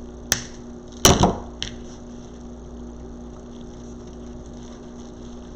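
A sharp click, then a quick cluster of two or three louder knocks about a second in, and a faint click just after, over a steady low hum.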